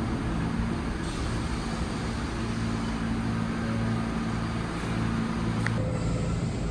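New York City subway train in the station, its equipment humming steadily with several held low tones over a rumble. A short high tone sounds near the end.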